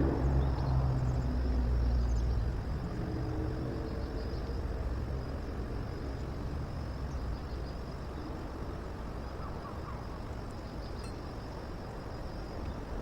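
A motor vehicle's engine rumbling, fading away over the first few seconds and leaving a low steady background rumble.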